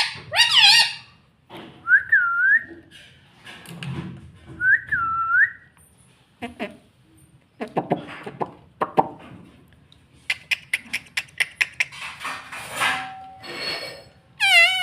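Pet Indian ringneck parrot whistling and chattering: two short dipping whistles, bits of chatter, a quick run of clicks, and loud calls at the start and near the end.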